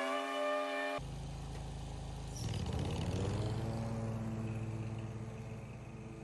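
Small engine of lawn equipment running. About a second in, a steady high whine cuts off abruptly and a lower engine note takes over; that note rises in pitch as the engine is throttled up, then holds steady.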